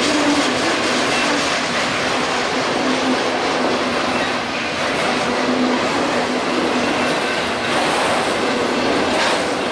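Freight train cars rolling past, with a steady, loud noise of wheels on rails.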